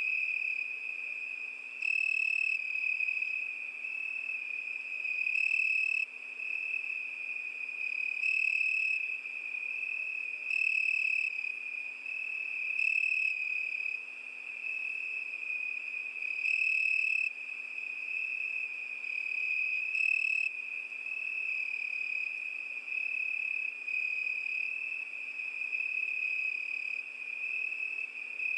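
Cricket singing in a steady high-pitched trill, swelling louder for about a second every few seconds.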